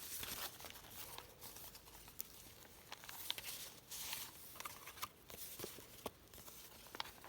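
Faint rustling and crinkling of paper and card pages in a handmade journal being handled and turned, with a few small clicks.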